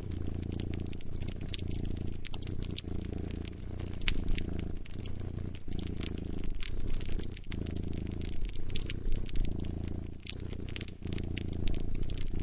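A cat purring close up, the purr swelling and dipping with each breath every second or two, over the sharp snaps and pops of a crackling wood fire.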